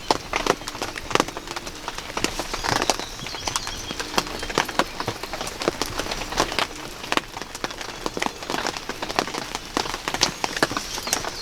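Rain falling steadily, with many irregular sharp raindrop taps on a nearby surface.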